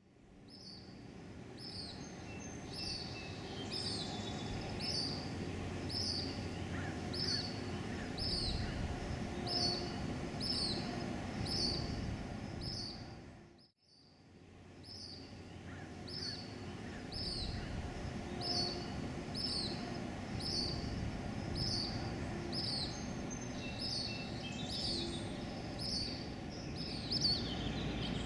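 A small bird gives the same short, high chirp about once a second, steadily and over and over, above a low background rumble. The sound fades in, drops out briefly about halfway through, and comes back.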